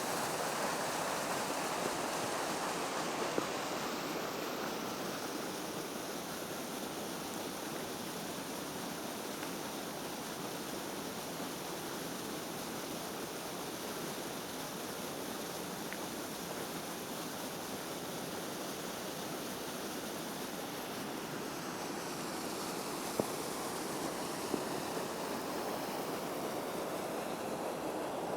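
Waterfall on a frozen creek, the water rushing steadily, with a few brief ticks over it.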